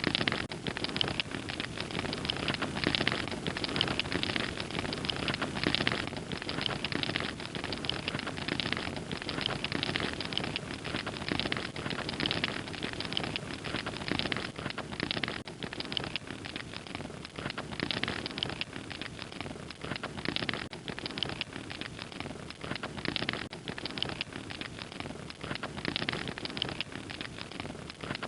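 Wood fire crackling steadily, with many small pops and snaps over a constant hiss and low rumble of burning.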